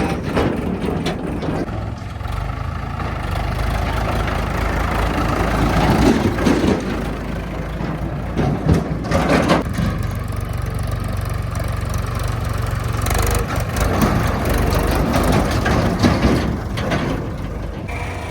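Heavy diesel engine running steadily, with several louder, noisier surges over the drone.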